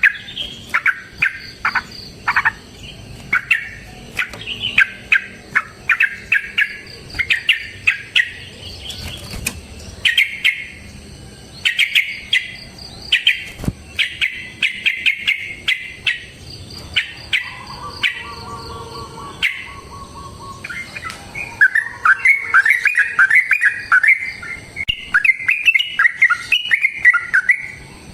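Yellow-vented bulbul (trucukan) calling: rapid series of sharp chip notes and chattering phrases, breaking into a fast, bubbling warble in the last several seconds.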